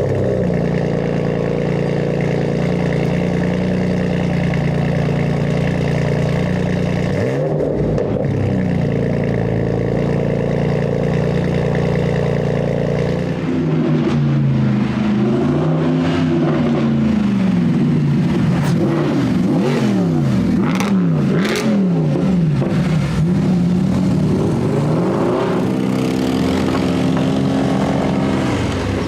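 Sports car engine through a loud aftermarket exhaust, held at a steady speed for about the first half, then revved up and down again and again in quick throttle blips.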